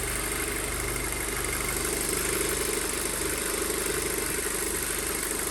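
Freshly rebuilt Audi 2.0 TFSI turbocharged four-cylinder engine idling steadily after its first start, a little higher-revving than usual and with a slight shimmy, but without misfires.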